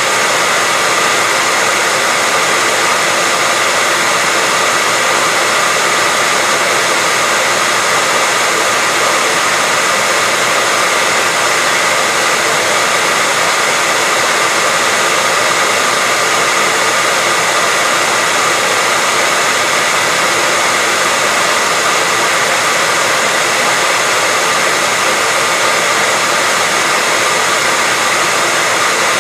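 Hair dryer running steadily: an even rush of airflow with a faint steady whine from the motor and fan, played as white noise for getting a baby to sleep.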